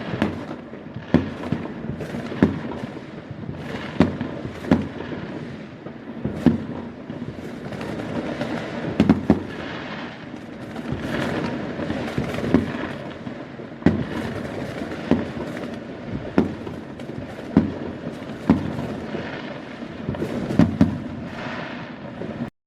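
Fireworks going off: sharp bangs every second or two over a steady crackling rumble, stopping suddenly near the end.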